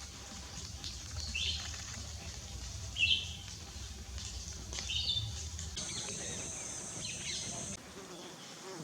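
Wild birds calling: three short chirping calls about a second and a half apart, over a low steady hum that cuts off near the end. A steady high hiss joins for about two seconds just before the hum stops.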